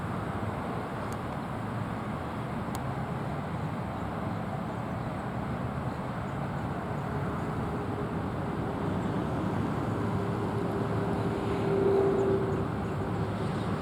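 Steady background engine and traffic rumble, with an engine hum passing by: it rises through the second half and is loudest near the end before fading.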